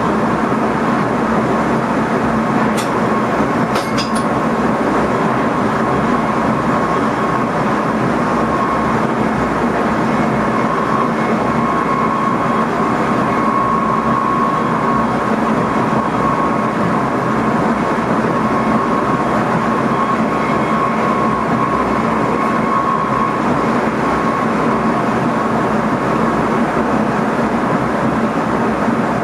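Steady running noise of an NS ICM electric multiple unit heard from inside the driver's cab, with a steady high tone through it. There are a few sharp clicks about three and four seconds in.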